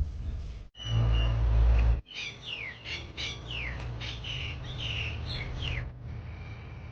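Songbirds chirping, a quick run of short down-slurred notes for about four seconds, preceded by a brief loud low rumble.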